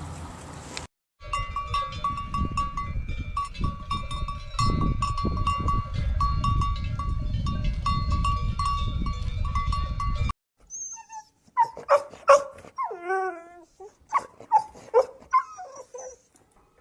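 A string of animal sound clips. First comes a loud low rumble with a repeated high peeping. After a sudden cut about ten seconds in, a dog gives short, sharp yelps and whines that bend up and down in pitch.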